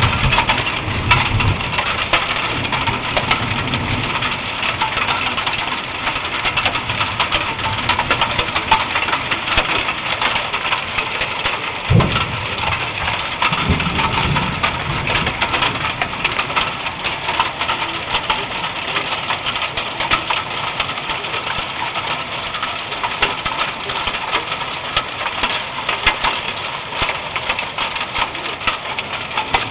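Big hailstones falling hard, a dense, steady clatter of countless small impacts, with one louder thump about twelve seconds in.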